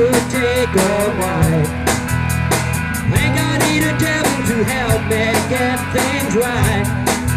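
Live rock band playing: drum kit keeping a steady beat under electric guitars and bass, with a wavering melodic line on top.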